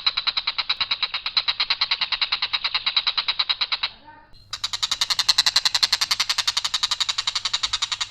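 Tengkek buto, a kingfisher, calling a long, harsh rattle of rapid repeated notes, about ten a second, on one unvarying line. The rattle stops for about half a second some four seconds in, then picks up again louder and brighter.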